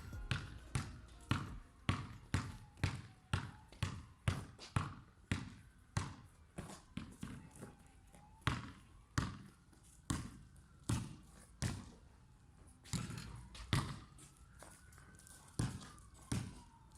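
A steady series of sharp knocks or taps, about two a second, with a faint tone slowly rising and falling behind them.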